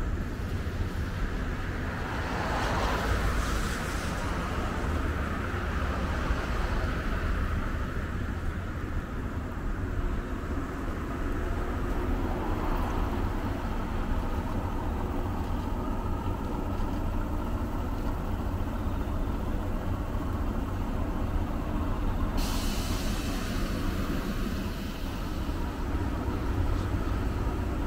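JR 115-series electric multiple unit running slowly along the station track, a steady low rumble of motors and wheels on rail. A sudden hiss cuts in about three-quarters of the way through and fades over a few seconds.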